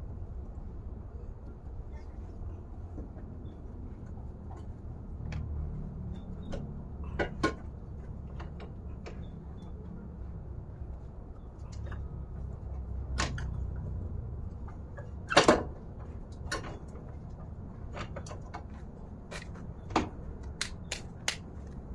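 Scattered short knocks and clicks of hand tools and metal parts as an engine mount is worked loose and pulled out of the engine bay, over a low steady rumble. The loudest knock comes about fifteen seconds in.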